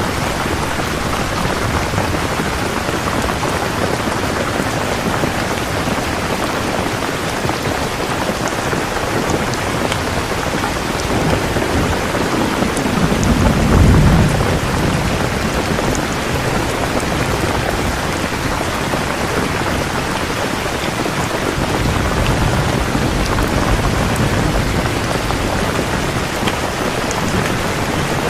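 Steady, heavy rain falling, an even hiss of drops. About halfway through, a deep low rumble swells and fades, and a fainter one follows near the end.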